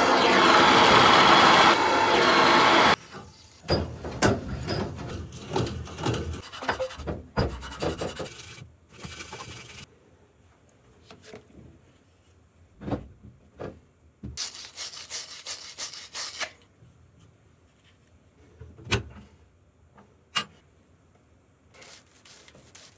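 Copper pipe and fittings being scrubbed clean by hand for soldering, a dense rasping rub for the first three seconds or so. After that come scattered clicks, knocks and short scrapes as the parts are handled, with a brief rush of hiss a little past the middle.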